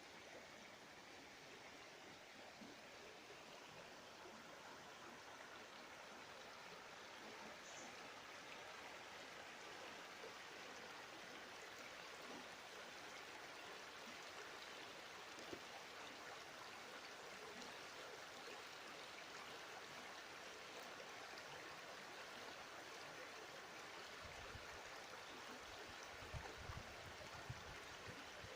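Faint, steady rushing of the Duratón river flowing, with a few short low bumps near the end.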